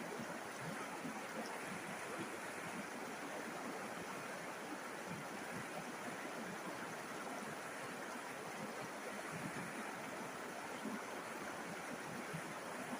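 River water flowing over stones: a steady, even rushing and babbling.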